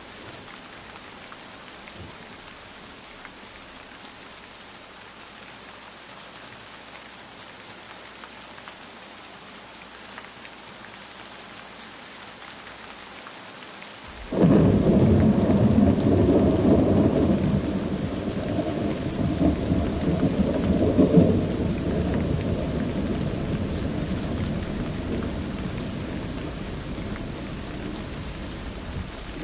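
Steady rain falling, then about halfway through a loud roll of thunder breaks in suddenly and rumbles on over the rain, slowly easing off.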